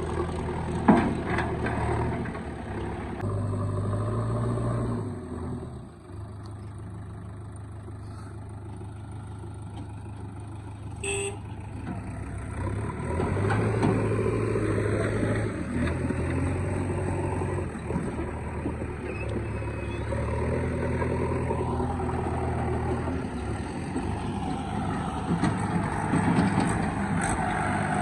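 Heavy diesel engines of a backhoe loader and tractors running, getting louder and easing off in turns as the loader works. A sharp knock comes about a second in.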